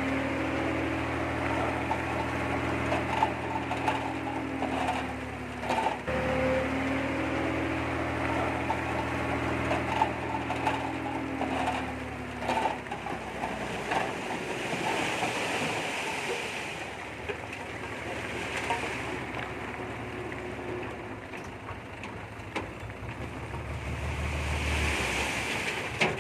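D20P bulldozer's diesel engine running under load, its pitch sagging and recovering about six seconds in, then dropping back about halfway through, with scattered sharp knocks.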